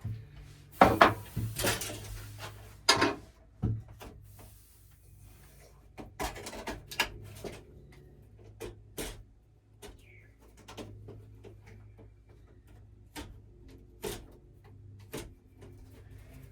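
Irregular scraping, clicks and knocks of hand work on a freshly sawn pipe end: a razor blade cleaning off the cut, with tools and fittings being handled. The louder scrapes come in the first few seconds and again about six seconds in, then lighter scattered clicks.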